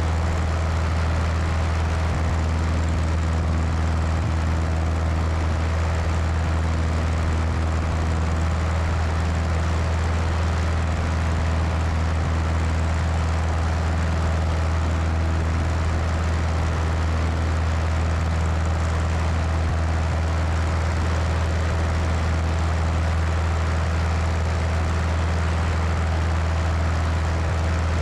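Cessna 172's piston engine and propeller running at a steady, unchanging power setting in flight, with wind rushing over a wing-mounted microphone.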